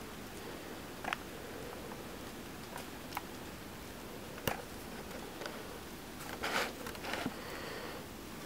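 Scattered sharp snaps and crackles over a steady hiss, with one loud crack about four and a half seconds in and a longer crackling burst a little after six seconds. It sounds like something being electrocuted outside, which the listener takes for a bug zapper.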